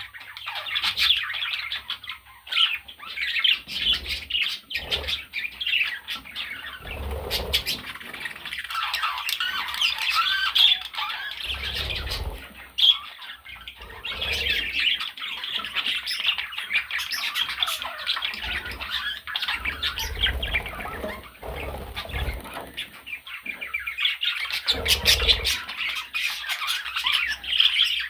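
Budgies chattering and squawking without a break, in quick, busy warbles. Low thumps come now and then, several times.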